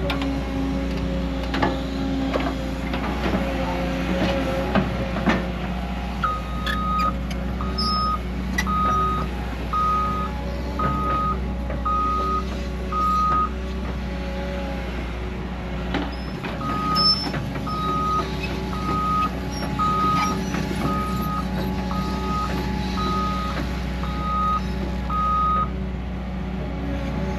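A heavy machine's engine running steadily, with its reversing alarm beeping about once a second in two runs, the first starting about six seconds in and the second a few seconds after it stops.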